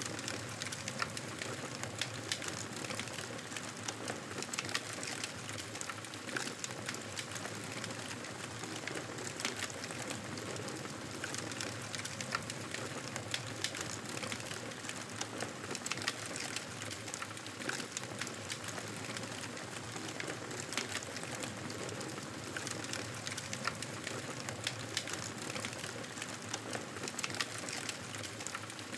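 Campfire burning: a steady hiss of flames with frequent irregular crackles and pops from the burning wood.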